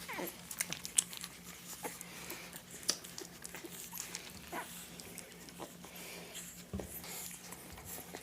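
American Bully puppies feeding: a busy run of small wet smacking and suckling clicks with soft breathing, and a short falling whimper at the very start.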